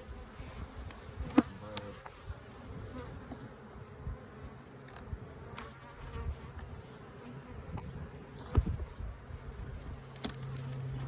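Honeybees buzzing around an open hive during an inspection, with a few sharp knocks as hive boxes and frames are handled, the loudest about a second in and near the end. A steadier, louder buzz sets in near the end.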